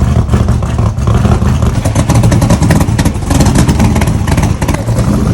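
Vehicle engine running loudly through its exhaust: a steady low rumble with rapid firing pulses.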